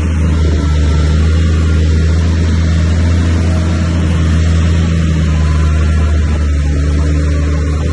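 Heavy diesel engine of earthmoving machinery running steadily under load, a deep even drone whose note shifts slightly about six seconds in.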